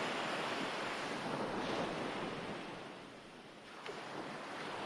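Recorded ocean waves washing on a shore, a continuous wash that ebbs about three seconds in and swells again near the end.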